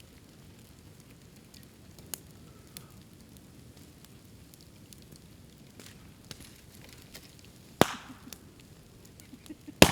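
A bamboo bonfire with faint crackling and a few small snaps, then two sharp loud bangs about two seconds apart near the end, the second the louder: bamboo stems bursting in the fire as the heated air sealed in their nodes breaks them open.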